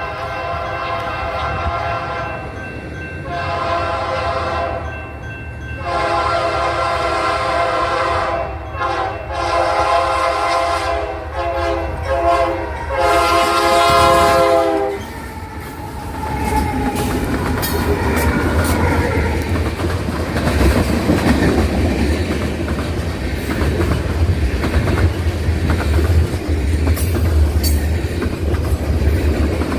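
Union Pacific C44ACM freight locomotive's air horn sounding a series of long blasts with short gaps, for about the first fifteen seconds. Then the manifest train rolls past with a steady low rumble and wheels clicking over the rail joints.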